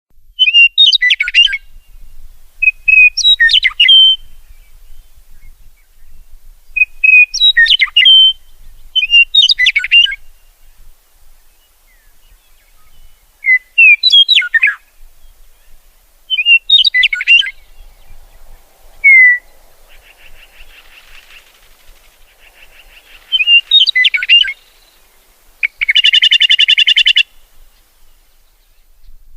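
A songbird singing short chirping phrases, repeated every two to three seconds. Buzzy, rattling calls come in after about twenty seconds, and a harsh buzzing call sounds near the end.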